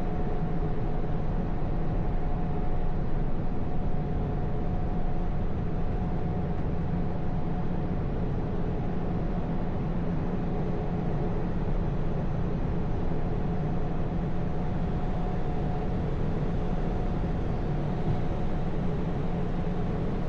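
Car being driven at a steady pace: a constant blend of engine and road noise, with a faint steady whine above it.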